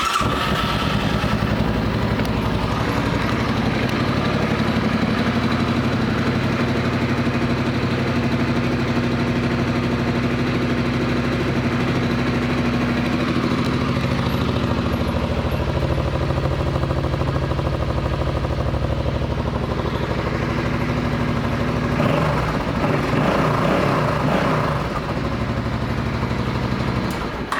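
2008 Suzuki Boulevard C50's 805 cc V-twin idling steadily just after start-up. The note turns louder and rougher for a few seconds near the end, then the engine shuts off suddenly.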